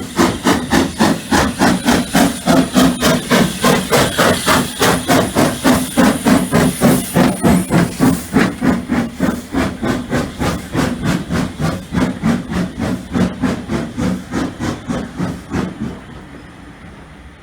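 Hunslet 0-6-0 saddle tank steam locomotive working hard, its chimney exhaust beating evenly at about three to four beats a second. The beats slowly weaken and then drop away to a faint hiss near the end.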